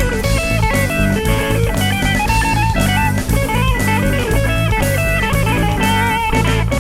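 A live rock band playing an instrumental passage: a bending electric guitar lead over bass, keyboards and drums.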